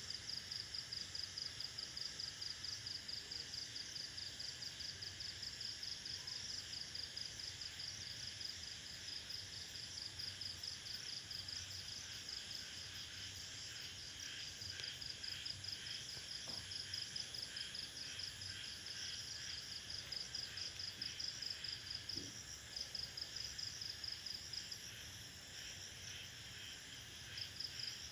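A cricket chirping in a fast, steady, high-pitched pulsed trill, which drops out briefly near the end and then resumes, over a fainter chorus of other insects in a rainforest night ambience.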